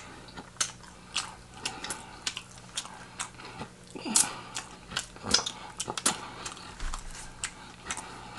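A person chewing food close to the microphone: an irregular run of wet mouth clicks and lip smacks, a few each second, with a slightly louder smack about four seconds in.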